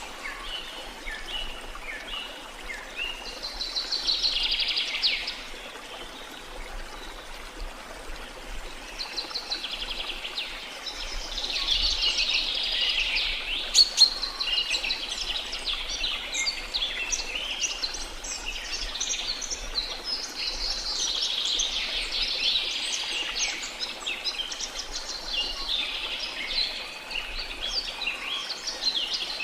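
Many small songbirds chirping and twittering in dense, overlapping bursts over a faint steady wash of sea. There is a single sharp click about 14 seconds in.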